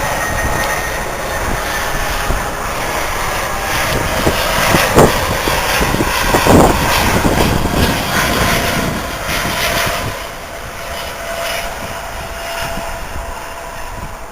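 Airbus A320 jet airliner passing close by on landing, its engine roar swelling to a peak about halfway through, then fading, with a faint steady whine underneath.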